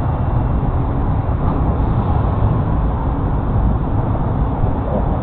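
Wind buffeting the action camera's microphone: a steady low rumble with no engine note or distinct events.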